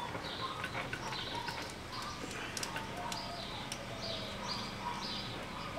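Small birds chirping in the background: a string of short, high notes, with a few light clicks.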